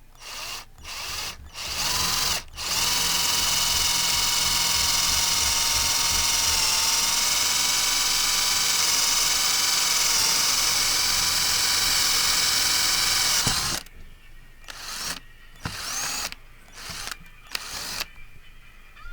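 Cordless drill motor running under trigger control: a few short blips, then a steady whine for about ten seconds that stops suddenly, followed by several more short bursts.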